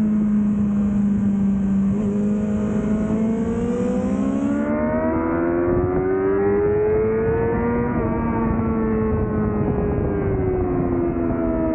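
2005 Yamaha YZF-R6 inline-four sport-bike engine with a Laser aftermarket exhaust, heard onboard at track pace. It holds steady revs for a few seconds, then climbs through the revs under acceleration and falls away again near the end.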